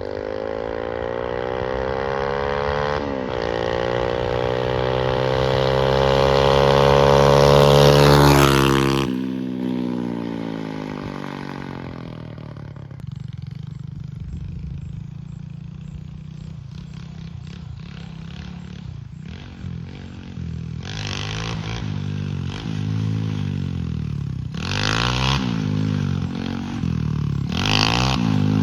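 The 125cc Lifan single-cylinder engine of a custom mini bike with a custom exhaust, revving up with its pitch climbing for several seconds. About nine seconds in it drops off sharply to a quieter run, then revs up and down again several times near the end.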